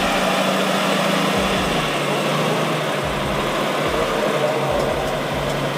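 Heavy truck engine running hard with a steady low drone, as a Tatra Phoenix truck works up a steep sandy slope.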